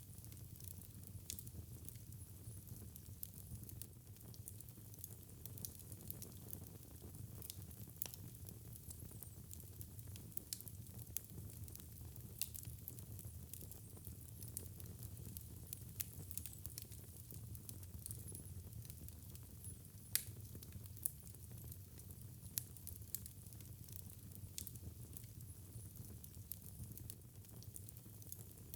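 Fireplace fire crackling: irregular sharp pops and snaps, a few a second, over a steady low rumble of the burning.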